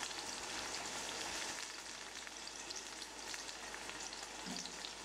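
Mushrooms, tomatoes and onion frying in butter in a stainless steel pan: a steady sizzle with small crackles, with a spatula stirring at the start. The tomatoes are frying down until they soften.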